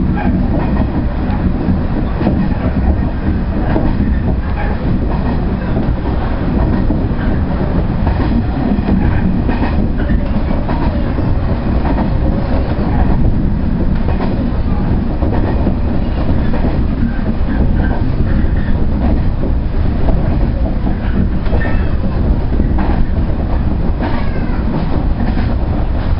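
JR Central 119 series electric train heard from inside its driver's cab while running: a steady, loud rumble of the train under way, with the clickety-clack of the wheels over the rail joints.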